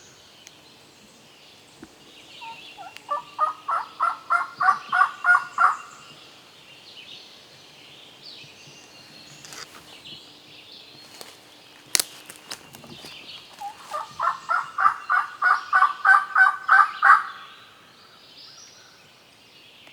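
Turkey calling in two long runs of about a dozen evenly spaced, yelp-like notes, about four a second, the second run starting about two-thirds of the way through. A single sharp knock comes between the two runs.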